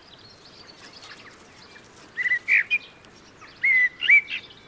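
Songbird singing: two short phrases of quick chirping notes, the first about two seconds in and the second near the end, over a faint outdoor background.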